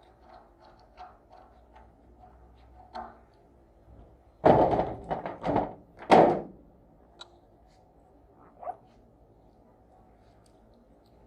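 A quick cluster of loud thuds and knocks about halfway through, with fainter taps before it and a single knock near the end.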